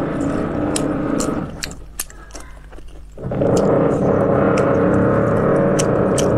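Wet mouth clicks and smacks of someone chewing soft braised pork belly, over a loud, steady hum made of several held tones. The hum cuts out about two seconds in and comes back about a second and a half later.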